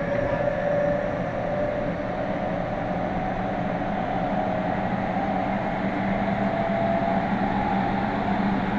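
Running noise inside a Meitetsu 100 series electric train car under Mitsubishi GTO-VVVF control: a steady rolling rumble with a traction-motor whine that drifts gently in pitch.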